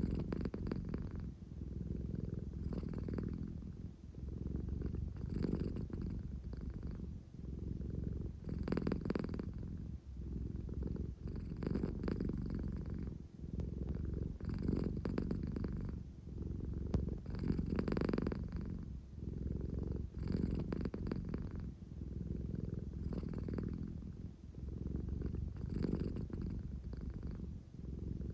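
American Shorthair cat purring steadily, the rumble swelling and easing with each breath every two to three seconds.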